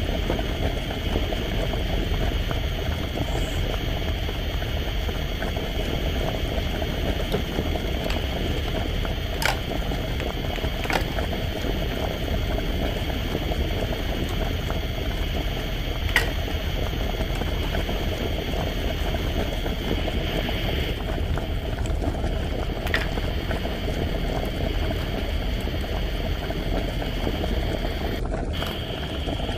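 Steady bubbling, boiling-water sound effect from a toy stove, with a handful of light clicks as plastic toy food is handled.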